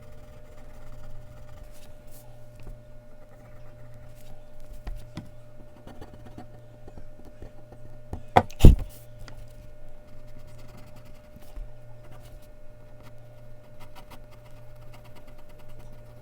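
Mechanical pencil working on Bristol paper: faint, scattered scratching and light taps over a steady low hum. About eight and a half seconds in, two sharp knocks in quick succession stand out as the loudest sound.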